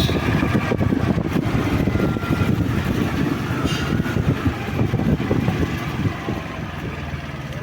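An engine running steadily with a dense low rumble, easing off slightly near the end.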